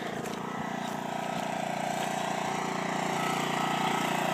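A small engine running steadily, slowly growing a little louder.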